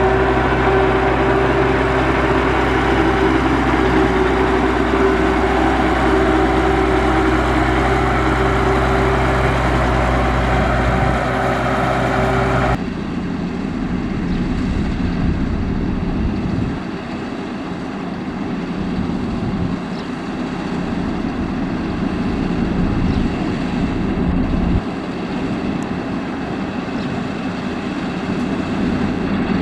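Diesel engines of heavy road-construction machinery running steadily. About thirteen seconds in, the sound changes abruptly to a different machine running.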